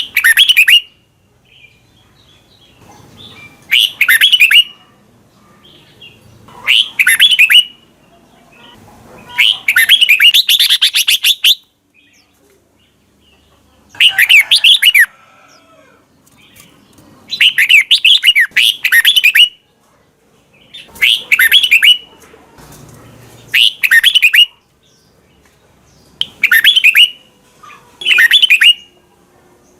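Red-whiskered bulbul singing: short, bright song phrases repeated every two to three seconds with quiet gaps between, and one longer run of song about ten seconds in.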